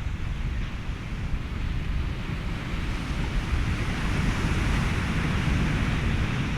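Ocean waves and wind blended with a steady hiss of white noise and a deep rumble; a wave surge swells louder in the second half.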